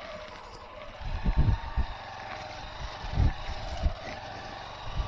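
Motorcycle engine running steadily as the bike works through loose sand, with gusts of wind buffeting the microphone about a second in and again past three seconds.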